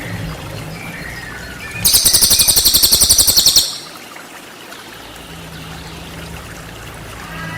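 Cililin song from a birdsong training recording: a loud, very high, rapid trill of about eight notes a second, lasting under two seconds about two seconds in, with faint softer bird notes, over a steady background of trickling water.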